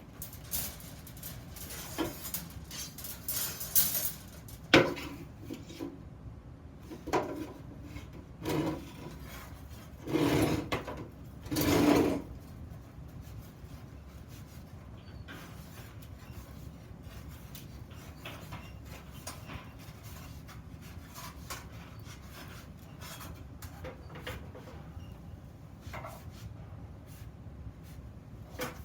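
Iron workpieces being handled on a workbench: scattered knocks and scrapes, with two louder scraping bursts about ten and twelve seconds in, then only light clicks.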